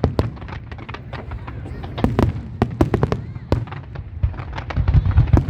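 Fireworks display: a rapid run of bangs and crackles, with a cluster of deep booms about five seconds in.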